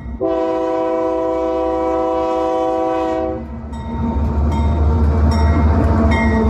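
A high-speed train's horn sounds one steady, multi-toned blast for about three seconds. The train then rushes past with a deep rumble and a rising rushing noise, with a few sharp clicks from the running gear.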